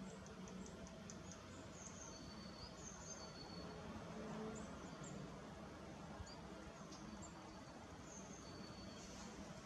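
Small birds calling faintly: scattered short chirps and brief high whistles, several at a time, over a steady low background noise.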